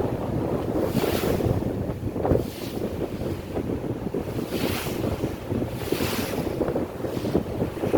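A ferry under way: a steady low rumble from the boat with water rushing past, and wind buffeting the microphone. Hissing surges of water or wind come every second or two.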